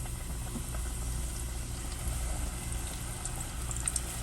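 Hot cooking oil in a pot for deep frying chicken, hissing and crackling, the crackles growing thicker about three seconds in, over a steady low hum.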